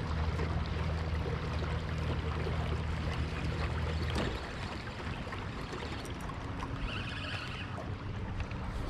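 Boat motor running with a steady low hum that cuts out about four seconds in, leaving wind and water noise.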